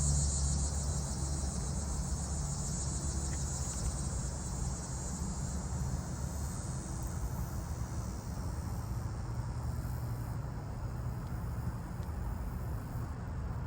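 Steady low drone of a single diesel locomotive's engine running, with crickets or other insects chirping in a high, even trill that fades out over the first half.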